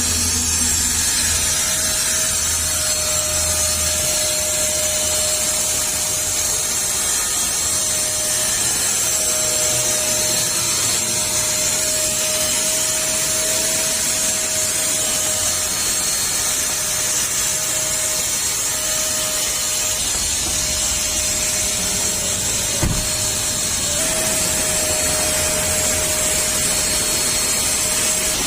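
Car-wash machinery running steadily: a constant motor whine over a continuous hiss, with one brief knock about three quarters of the way through.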